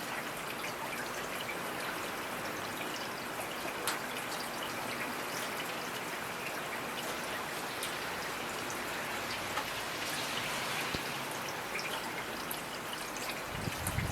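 Steady rainfall: an even hiss of rain with scattered individual drops ticking sharply, and a brief low rumble near the end.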